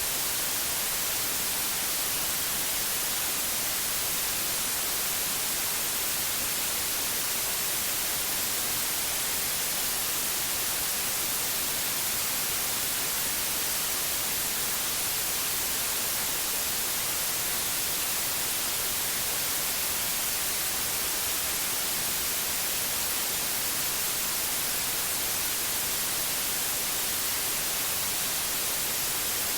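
Steady synthetic white noise: an even, unbroken hiss, brightest in the highs.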